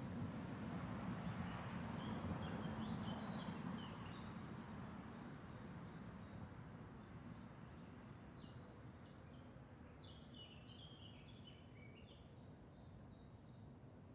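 Faint outdoor ambience: small birds chirping, with short high calls every few seconds and quick runs of chirps twice, over a low steady rumble that is louder for the first few seconds and then eases off.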